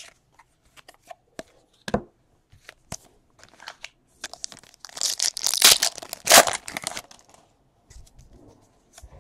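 A trading-card pack's foil wrapper being torn open: a loud crinkling tear lasting about two and a half seconds in the middle, with light clicks of cards being handled before and after.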